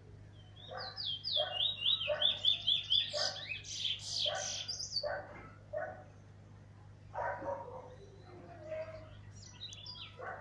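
Caged bullfinch (finch-type songbird) singing: a fast run of high, down-sliding chirps in the first half, over lower repeated call notes about every half second. It is a teacher bird's song of the kind kept for a young brown bird to learn.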